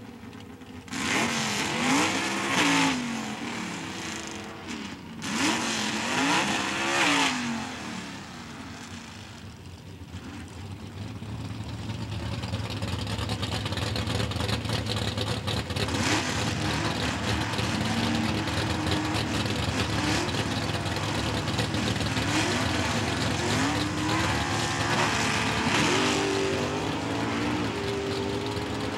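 Engine of a mid-1950s Chevrolet Super Stock drag car revving twice in the first seven seconds, its pitch sweeping up and down each time. From about eleven seconds it runs steadily at higher revs, with a few swells in pitch.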